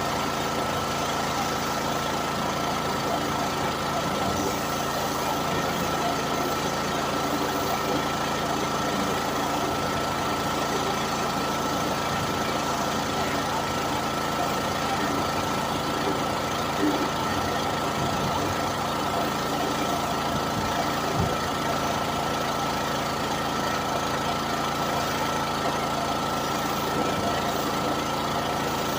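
An engine running steadily at a constant speed, with a steady high whine over a rushing hiss that does not change.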